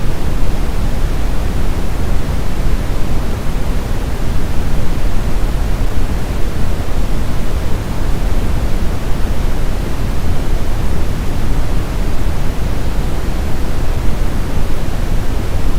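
Steady sleep-machine white noise: a constant, even hiss, heavier in the low end, with no change or break.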